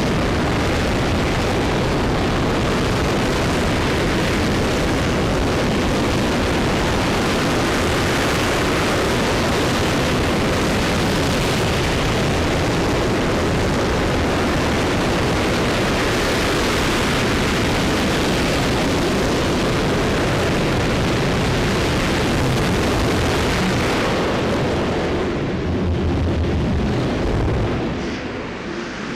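RS-25 liquid-hydrogen rocket engine firing on a test stand: a loud, steady roar of rushing noise that thins and drops off over the last few seconds.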